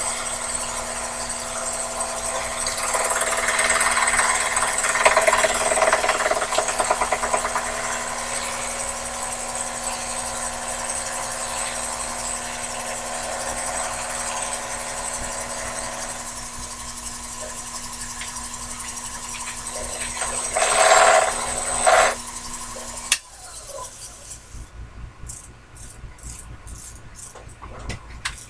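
Sherline mini lathe running with a steady motor whine as the tool takes a cut on metal turned between centers, the cutting noise growing louder twice. The lathe shuts off suddenly about five seconds before the end, leaving only a few light clicks.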